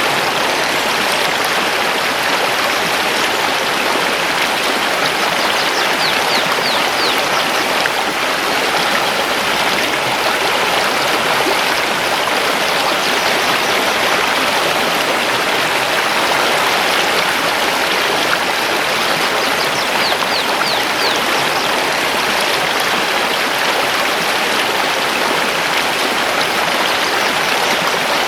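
Mountain river rushing steadily over stones. A few quick, high, falling bird notes come twice, about six seconds in and again about twenty seconds in.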